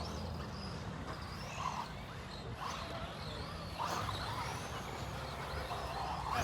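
Radio-controlled cars' electric motors whining, the pitch rising and falling with throttle, over a low steady rumble.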